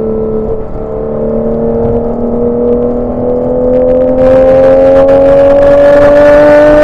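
Porsche 987 Boxster's flat-six DOHC VarioCam engine pulling under acceleration, its note rising steadily in pitch. About four seconds in it turns louder and harsher as a brighter upper tone comes in.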